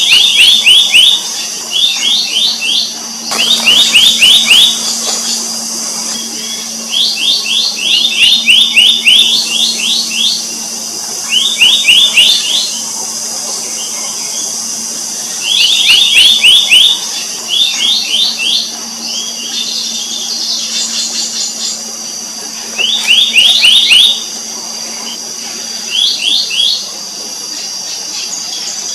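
Black-naped monarch calling: quick runs of short, downward-slurred notes, several in each run, repeated every few seconds, over a steady high-pitched drone.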